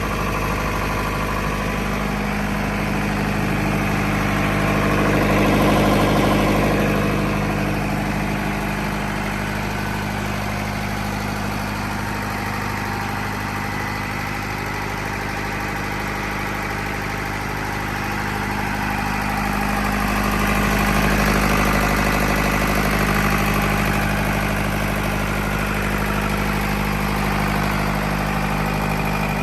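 Diesel generator set with a Tata 709 four-cylinder engine running steadily at a constant speed. It grows a little louder twice, about 6 seconds and about 21 seconds in.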